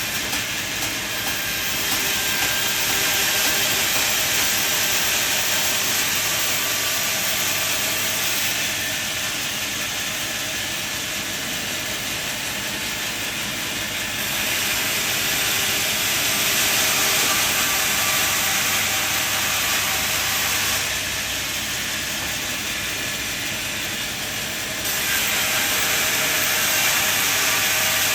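Sawmill machinery running, a steady mechanical hiss and rumble that grows louder and quieter in stretches of several seconds, as a saw cutting through a log would.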